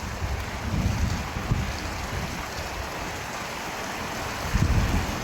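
Steady rain falling, with a low rumble swelling about a second in and again near the end.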